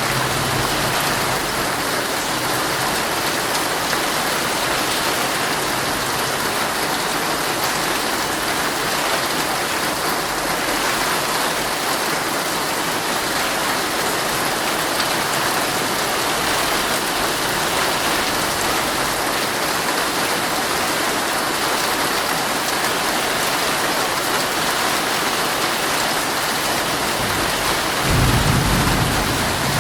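Heavy, steady rain falling on a tent, heard from inside. Near the end a low rumble of thunder rolls in.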